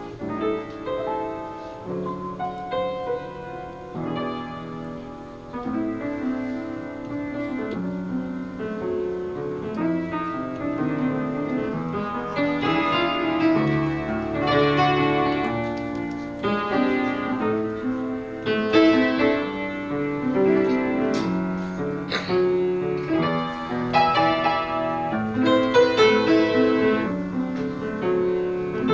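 Solo piano playing, several notes sounding together as chords under a moving melody.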